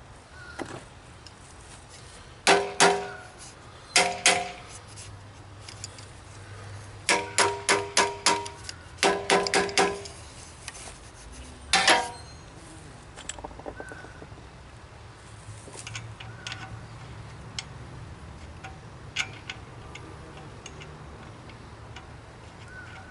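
Metal clinking on the bench grinder being taken apart: groups of sharp, ringing metal strikes, two, then two, then a quick run of about five, then four, then one, followed by faint scattered ticks and clicks.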